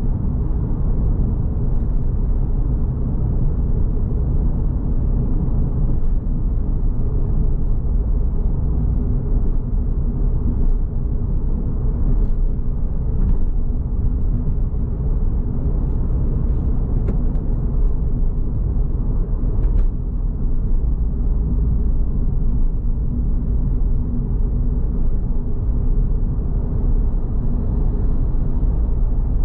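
Suzuki Swift Sport's M16A four-cylinder engine and road rumble heard from inside the cabin, running steadily at a constant cruise with a low drone.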